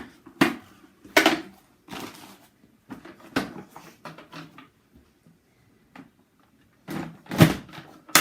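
Vacuum cleaner being handled while its dust bag is changed: a string of short plastic knocks, clatters and rustles, the loudest about seven and a half seconds in.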